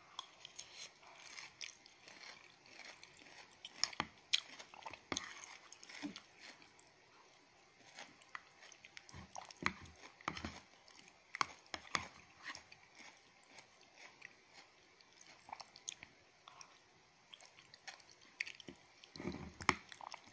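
A person chewing a mouthful of bamboo-shoot curry close to the microphone: faint, irregular wet clicks and small crunches.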